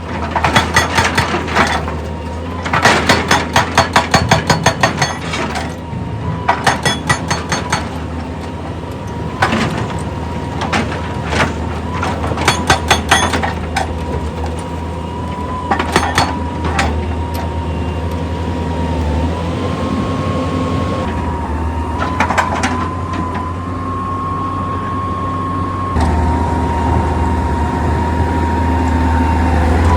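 Heavy machinery running: a diesel engine hums steadily under a constant high whine, with bursts of rapid clattering and knocks through the first half. Near the end the engine grows louder.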